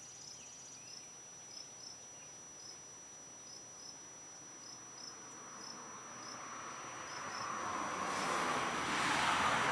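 Insects chirping: short high chirps repeating irregularly over a steady high trill. From about six seconds in, a rushing hiss swells and becomes the loudest sound near the end.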